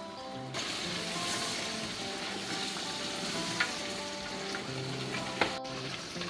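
Chicken in tomato sauce sizzling in a metal pot as it is stirred with a spoon; the sizzle starts about half a second in and holds steady, with a couple of sharp clicks of the spoon against the pot.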